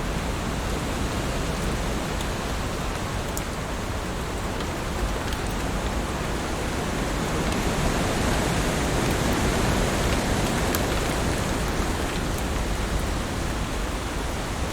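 Heavy rain falling steadily, a dense even hiss with a few sharper drop ticks scattered through it; it swells slightly a little past halfway.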